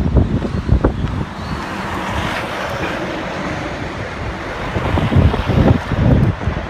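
Gale-force wind buffeting the microphone in gusts. Low rumbling buffets near the start and again from about five seconds in, with a steadier rushing hiss between them.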